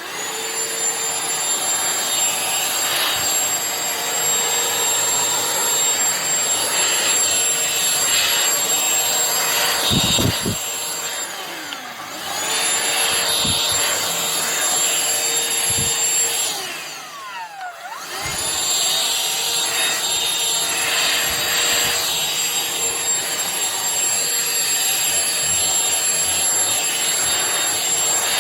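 Shark CH950UKT handheld cordless vacuum cleaner running with a steady high motor whine while sucking pet hair off a fabric sofa. Twice its whine stops briefly and starts up again, about twelve and seventeen seconds in.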